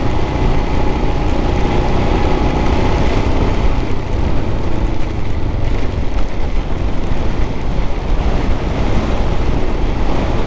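A Royal Enfield single-cylinder motorcycle engine running steadily at cruising speed. Heavy wind buffeting on the microphone all but buries it.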